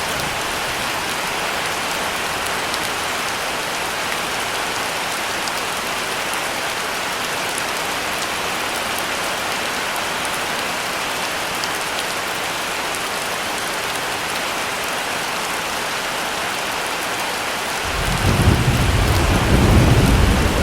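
Heavy rain falling steadily. About eighteen seconds in, a deep rumble of thunder rolls in and grows louder near the end.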